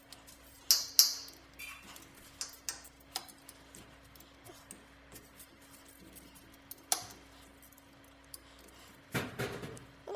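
Scattered metallic clinks and knocks of work on a float-and-thermostatic steam trap and its piping, with a brief hiss about a second in and a steady low hum underneath.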